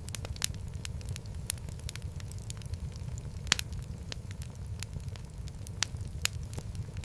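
Wood fire burning in a fireplace, a steady low rumble of flames with frequent sharp crackles and pops, one louder pop about three and a half seconds in.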